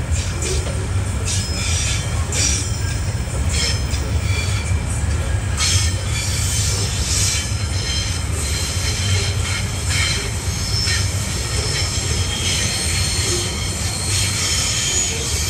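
Loaded container wagons of a freight train rolling past, a steady low rumble with the wheels squealing and screeching on and off.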